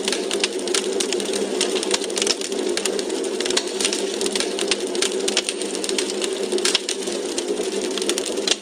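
Wood fire crackling in a fireplace: a dense run of irregular pops and snaps over a steady low rushing of the flames.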